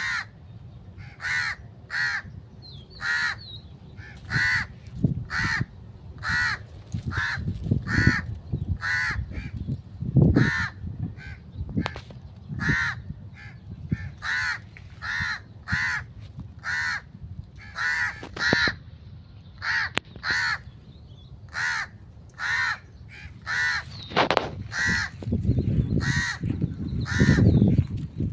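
Large black birds giving short, harsh calls over and over, about one a second, the agitated calling the uploader calls very angry. Low rumbling noise comes and goes beneath them and swells near the end.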